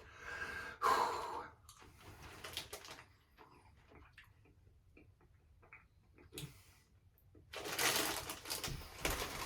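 A person chewing a jelly bean close to the microphone, with soft scattered mouth clicks. A louder noisy stretch comes near the end.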